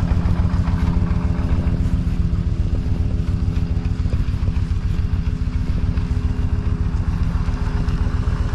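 Yamaha motorcycle engine running steadily at low revs, with an even rapid firing beat and no change in pitch.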